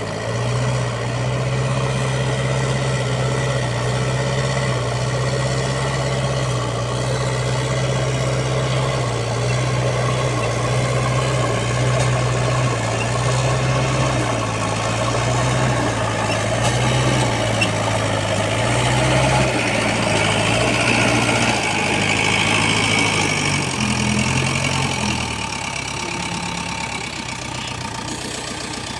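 Heavy diesel engine of earth-moving machinery running at a low, uneven speed. It eases down about 24 seconds in and picks up again near the end.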